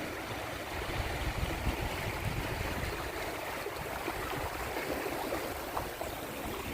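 Waves washing and trickling over the shore, with wind buffeting the microphone in an uneven low rumble.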